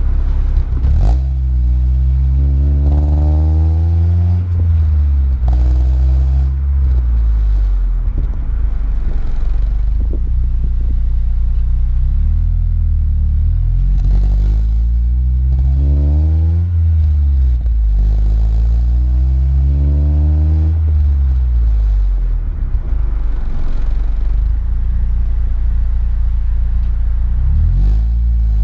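2003 Honda Civic Si's 2.0-litre four-cylinder engine through a cat-delete test pipe with resonator, shorty header and Yonaka catback with resonator and muffler, rising in pitch and dropping back several times over a steady low drone.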